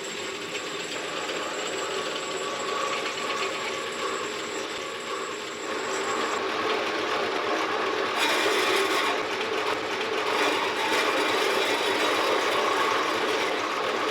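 Horizontal metal-cutting bandsaw running with a new blade, held up by hand as it starts a fresh cut. The sound grows louder and harsher about eight seconds in.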